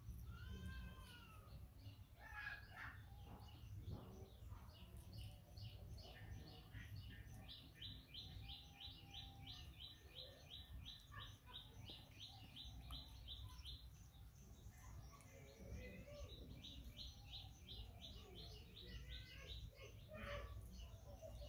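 Faint birdsong: scattered chirps, and a bird repeating quick, evenly spaced high notes in two long runs, the first starting about seven seconds in.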